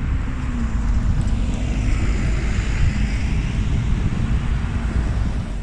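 Double-decker buses driving past close by in traffic: a steady low engine rumble and road noise, with wind buffeting the microphone.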